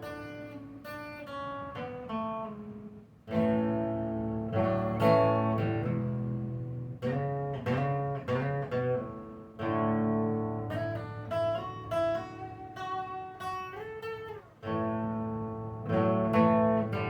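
Instrumental break of a song: acoustic guitar strumming chords that ring out and fade, with picked notes between them.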